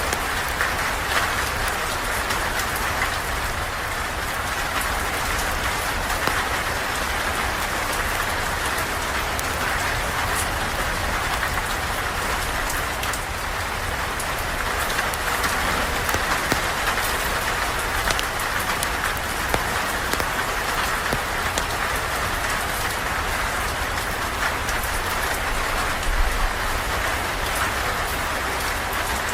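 Steady rain falling, a continuous even hiss with many scattered sharp ticks through it.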